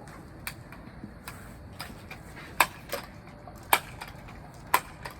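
Pellet guns being handled and readied, giving off a run of sharp, irregular mechanical clicks and knocks, about eight in all, the loudest a little past halfway.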